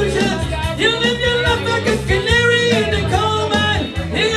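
Up-tempo rock song with a lead vocal singing over electric guitar, bass and drums.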